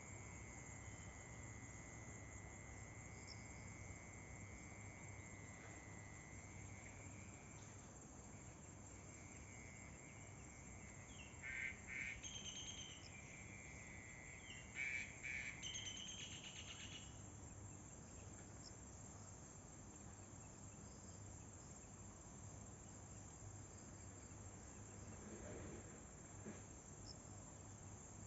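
Faint nature ambience: a steady high insect trill for the first several seconds, then two short bursts of animal calls about twelve seconds in and again a few seconds later, over a low steady hiss.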